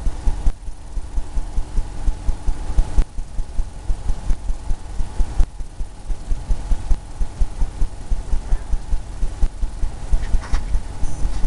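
Paintbrush working oil paint onto a stretched canvas, making a quick run of dull low thuds, about four a second.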